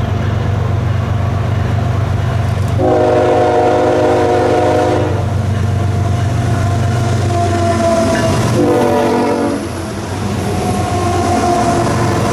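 Diesel freight locomotive's air horn blowing a long blast of about two seconds, then a shorter blast after a pause, over the steady rumble of the diesel engine and moving train.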